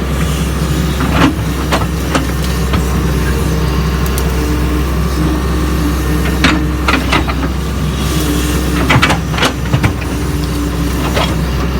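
Doosan DX140 excavator's diesel engine running steadily under work, with a whine that comes and goes. Sharp knocks and clanks land several times, clustered near the middle and about three quarters of the way through.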